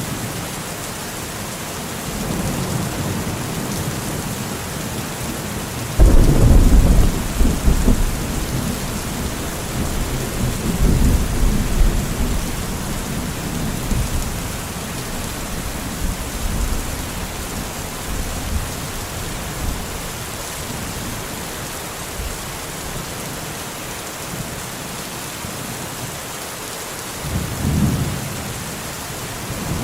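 Steady rain with thunder. A loud clap about six seconds in rolls on as low rumbling for several seconds, and a shorter rumble comes near the end.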